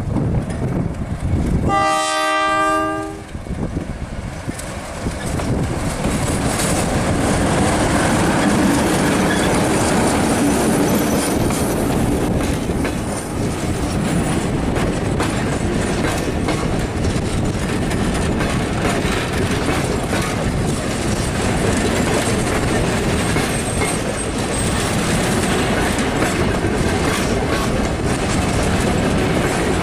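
A train's horn blasts once, briefly, then the train passes close by with steady rumbling and wheel clatter on the rails.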